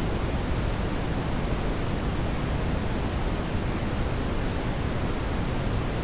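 Steady brown noise: an even, deep rushing hiss, heaviest in the bass and fading toward the highs, with no change.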